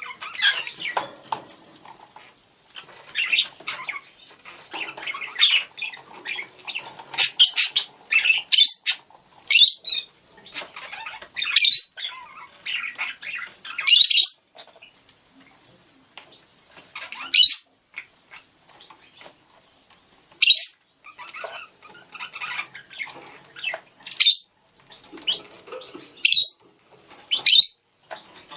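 Budgerigars calling to one another with sharp chirps and squawks, in irregular bunches, with a quieter spell near the middle.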